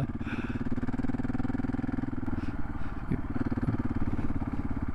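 Single-cylinder Gas Gas ES 700 adventure motorcycle engine running steadily under a light, even throttle while riding.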